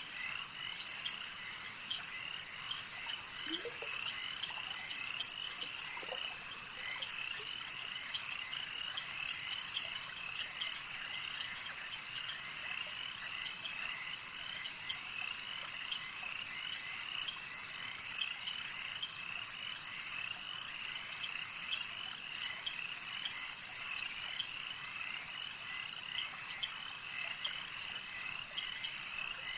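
A continuous chorus of calling frogs: many short, high chirps repeating several times a second without a break. A couple of lower rising calls come about four and six seconds in.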